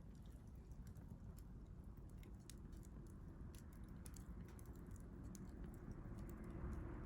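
Faint campfire crackling: irregular sharp pops and ticks of burning wood over a low, steady rush.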